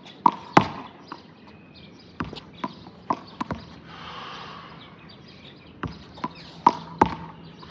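A handball being struck by hand and rebounding off the wall and floor: a series of sharp smacks, several in quick pairs.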